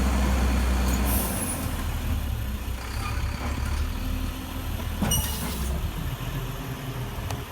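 Recycling truck's engine running with a steady low drone, with short hisses of air about a second in and again about five seconds in.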